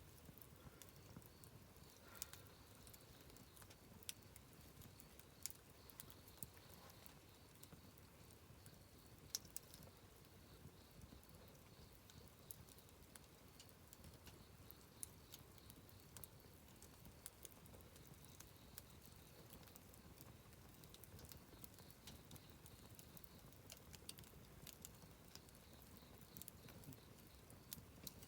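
Wood campfire burning quietly, with scattered sharp crackles and pops, a few louder snaps, over a soft low rush.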